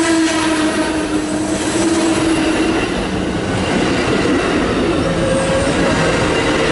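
A train passing close by, its rail cars rolling loudly over the track. A steady ringing tone from the wheels sounds over the first few seconds and then fades.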